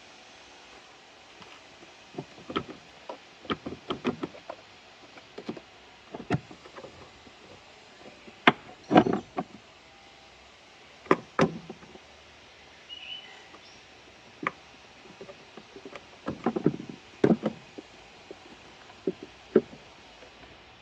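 Irregular clicks and knocks of tools and hard parts being handled during work on a car's windshield wiper motor and linkage, with a few louder clusters of knocks.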